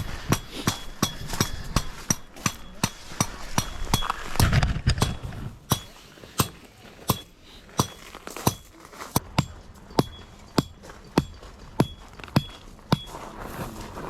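A hammer driving a metal tent peg into the ground, with steady strikes about one and a half a second, each giving a short metallic ring.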